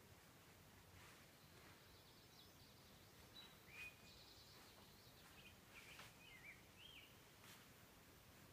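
Near silence: a faint, even outdoor background with a few quiet bird chirps and short rising and falling whistles, mostly in the middle.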